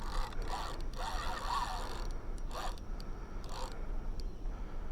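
Fishing reel being cranked while fighting a catfish on the line: scratchy, zipper-like winding in irregular bursts.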